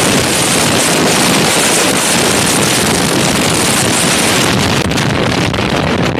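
Loud wind rushing over the microphone of a moving motorcycle, a steady roar of noise that hides any engine sound.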